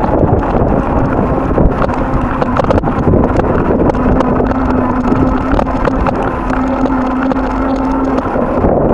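Strong wind buffeting the microphone: a loud, steady low rumble. A faint steady hum runs through the middle, with scattered light clicks.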